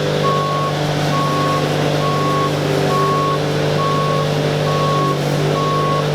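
Reversing alarm on a heavy machine beeping steadily about once a second, seven short beeps, over its engine running steadily.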